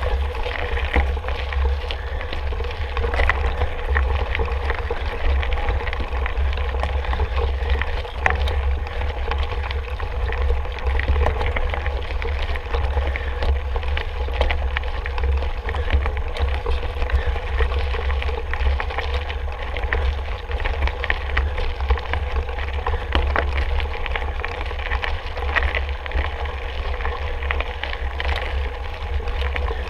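Wind buffeting the camera's microphone during a mountain-bike ride, with tyre noise from the trail and many short rattles and clicks from the bike.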